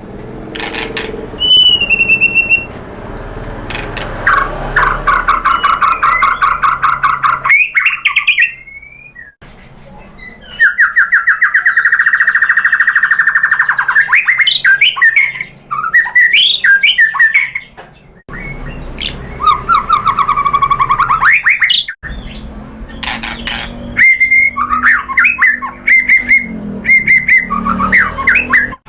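White-rumped shama (murai batu) singing loud, varied song: fast rattling trills, whistled glides and sharp chirps, broken by several abrupt cuts.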